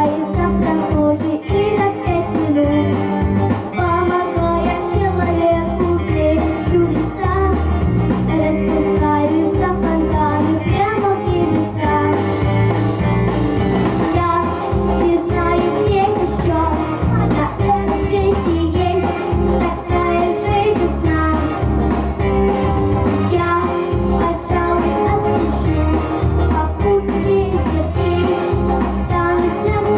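A woman singing a pop-rock song over a steady band accompaniment with guitar.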